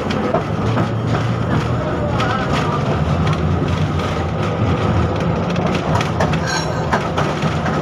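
71-605 (KTM-5M3) tram running along the track, heard on board: a steady low rumble from the wheels and running gear, with frequent clicks and rattles from the rails.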